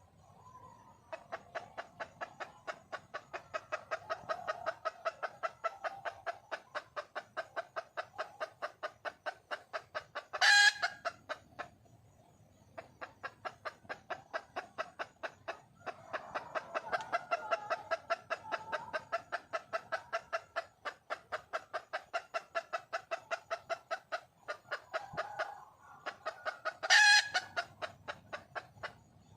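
Red junglefowl hen calling for a mate: long runs of rapid clucks, about six a second, each run broken off by a short, much louder call, about ten seconds in and again near the end.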